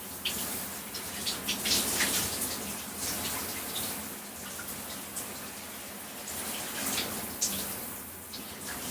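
Shower running onto a person's body: a steady hiss of spray with irregular splashes and spatters as the water is broken up on the body.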